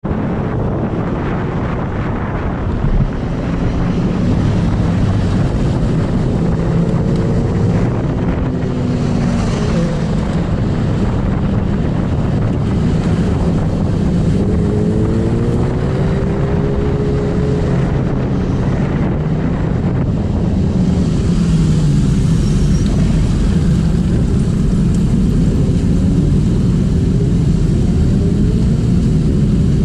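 Superbike engines running on a ride, their pitch rising and falling as the throttle opens and closes, over a steady rush of road and wind noise.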